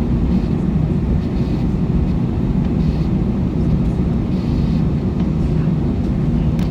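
Steady low rumble of an Airbus A321 airliner's cabin before departure, the hum of the aircraft's running systems with a steady low drone throughout.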